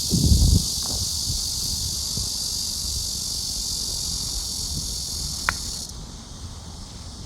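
Steady high-pitched insect buzzing that cuts off suddenly about six seconds in. There are low thumps at the very start and a single sharp click about five and a half seconds in.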